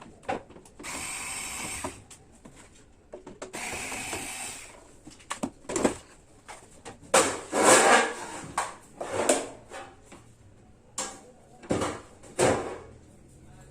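A power screwdriver runs twice in short spurts of about a second, backing out screws from the amplifier's case, followed by a run of sharp knocks and clatter as the cover and parts are handled.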